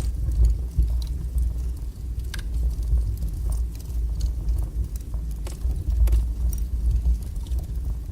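Wood fire burning in a fireplace: a steady low rumble of flames with scattered sharp crackles and pops of the burning wood.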